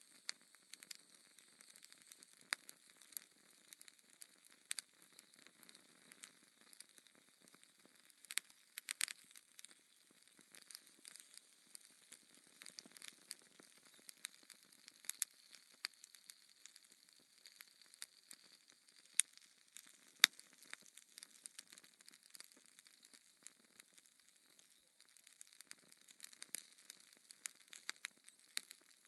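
Fire crackling in a fireplace: sharp, irregular pops over a faint hiss, with two louder pops about two-thirds of the way in.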